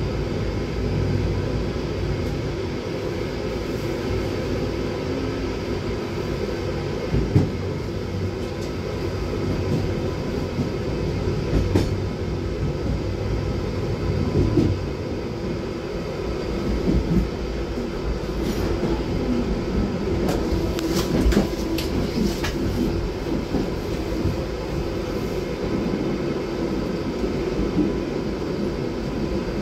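PKP Intercity express train running at speed, heard from on board: a steady rumble of wheels on rail, with occasional sharp clicks and a quick run of them a little past two-thirds through as the wheels pass over joints and points.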